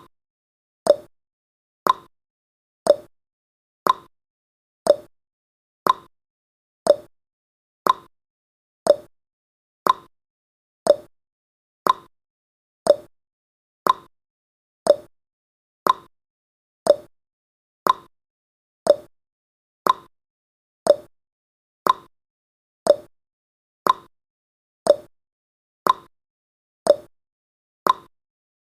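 Countdown timer's tick sound effect: a short, sharp tick once every second, evenly spaced and steady, marking off the seconds of the countdown.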